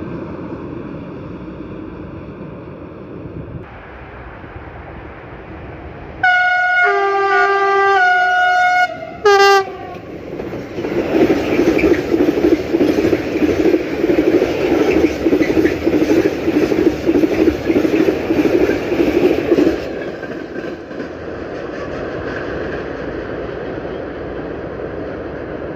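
Train horn sounding a long blast of about three seconds that shifts pitch, then a short second blast. The train then passes with loud, rhythmic wheel clatter, which settles into a steadier rolling noise for the last few seconds.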